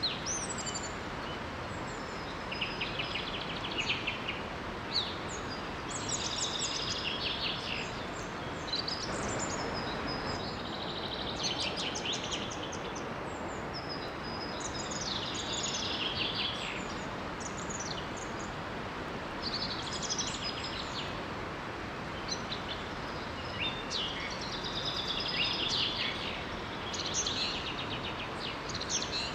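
Songbirds singing in short phrases of rapid, chattering notes every few seconds, over the steady rush of a small waterfall.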